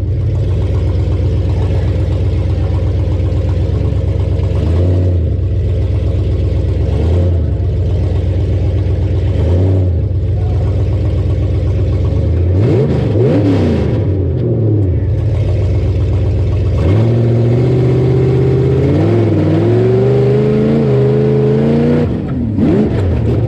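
Rough truck's engine revving hard, its pitch rising and falling as the throttle is worked through the first half. Later it holds high, climbing revs for about five seconds, then drops back sharply near the end.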